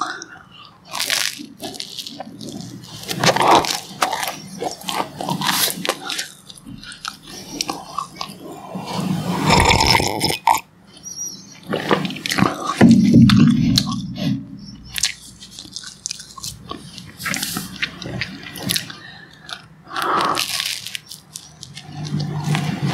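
Close-up biting and chewing of jam-spread brown bread, with irregular crisp bites and wet mouth sounds.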